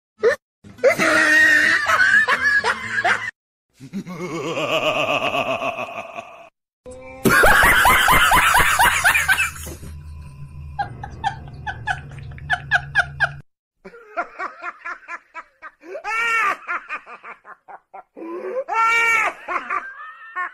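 A string of separate laughing clips one after another with short silent breaks between them, some loud and shrill, one with quick repeated 'ha-ha' pulses, with music underneath in the middle.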